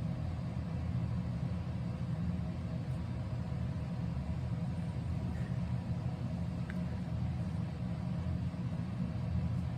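Steady low background hum of a running machine, with a few faint steady tones above it and no change through the pause.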